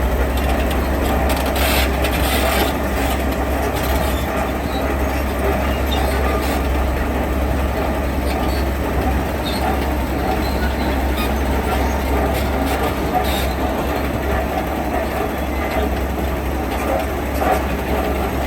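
Heavy diesel construction machinery working, with a steady low engine drone and a broad rumble. A few knocks come about two seconds in and again past the middle.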